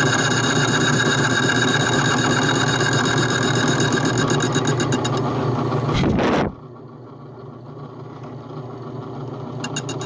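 Small machine tool's electric motor running steadily while machining a soft bronze valve plug. About six seconds in there is a knock, the sound drops much quieter, and it then slowly builds back up.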